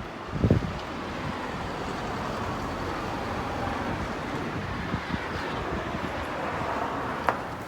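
A low firework boom about half a second in, then a steady rushing noise that swells slightly and drops away near the end, with one sharp crack shortly before it does.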